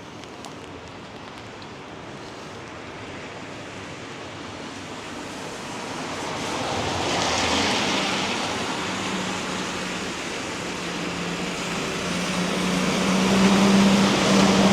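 Traffic on a wet road. A vehicle's tyres hiss through surface water as it passes about halfway through. Near the end a steady low engine hum grows louder as another vehicle comes closer.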